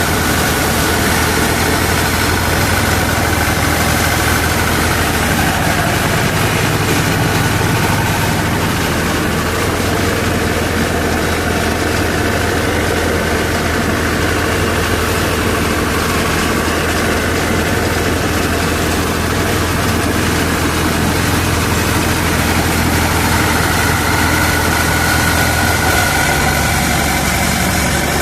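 Mahindra 575 tractor's diesel engine running steadily at low speed.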